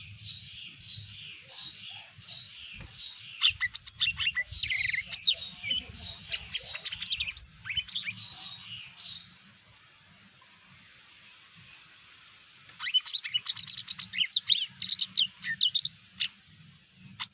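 Green leafbird (cucak ijo) singing: a run of evenly repeated falling whistles about two a second, then a fast, varied burst of sharp notes and clicks. After a pause of about three seconds comes another loud burst of song near the end.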